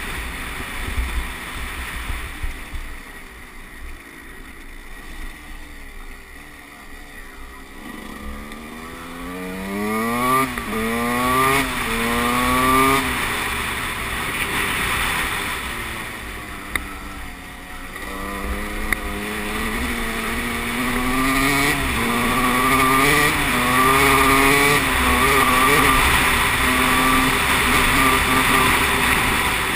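Motocross bike engine revving hard through the gears, its pitch climbing and dropping back at each shift. It runs quieter for the first several seconds, then pulls hard from about eight seconds in and again from about eighteen seconds on. Wind buffets the microphone throughout.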